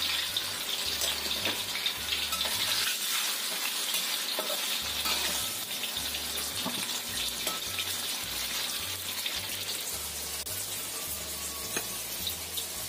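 Tofu cubes frying in hot oil in a wok, a steady sizzle.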